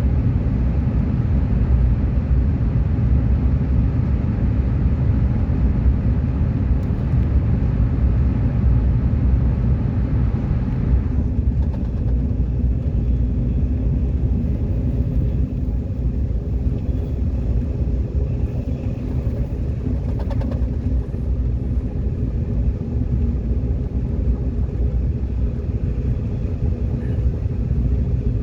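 Subway train running at speed: a steady low rumble of wheels on track and traction motors. The higher hiss above it drops away about eleven seconds in.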